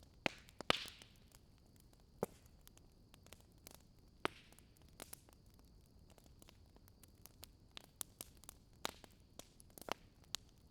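Wood fire in a fireplace crackling: irregular sharp pops and snaps over a soft hiss, the loudest pop about a second in, followed by a brief hiss.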